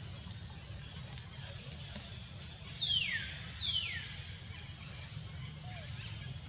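Two high, sharply falling whistled bird calls about a second apart, over a steady low rumble.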